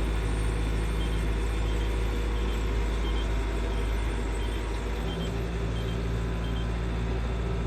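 New Holland TN85SA tractor's diesel engine running steadily under load while pulling a wheat seed drill. Faint short high beeps repeat a little faster than once a second.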